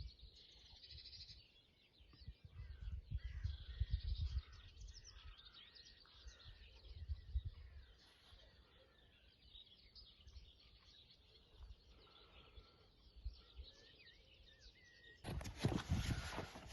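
Small birds singing and chirping outdoors, with scattered low rumbles and thuds. Near the end a louder, even rushing noise cuts in suddenly.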